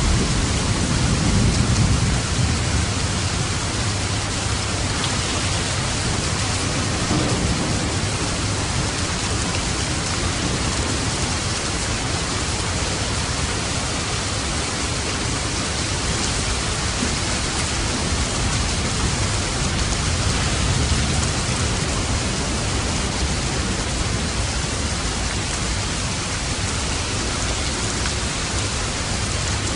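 Steady heavy rain falling on a roof, with a low rumble of thunder in the first few seconds.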